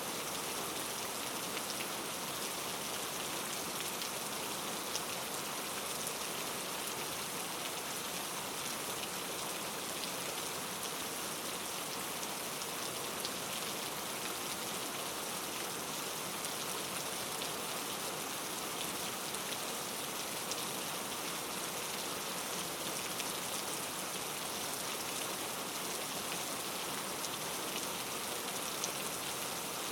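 Steady rain falling, a continuous hiss with many fine drop ticks and no thunder.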